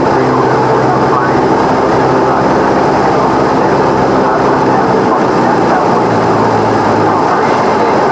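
Cessna 172's piston engine and propeller running, a loud steady drone whose pitch shifts a little.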